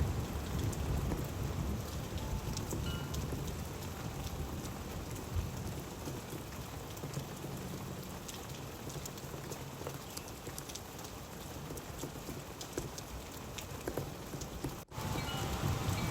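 Steady rainfall with close drops pattering, and a low rumble of thunder dying away over the first few seconds. The sound cuts out for an instant near the end.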